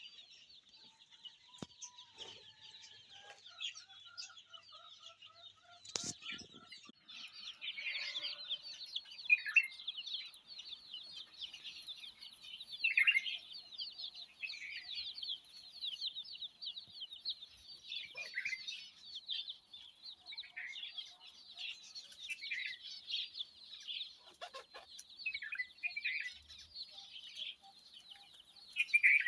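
A flock of small birds chirping and chattering rapidly, sparse at first and thickening into a continuous chatter, with louder sharp calls that drop in pitch every few seconds.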